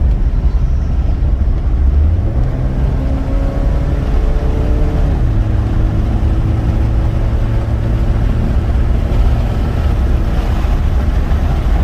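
2002 Honda Civic LX's 1.7-litre four-cylinder engine pulling the car along the road: its note climbs for a few seconds, drops suddenly about five seconds in as the rebuilt automatic transmission shifts up, then holds steady under road rumble.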